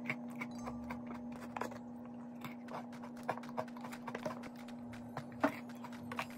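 Close-up crunching and chewing of a rock-hard frozen piece of chocolate-coated bagel, a run of small sharp crackles and cracks.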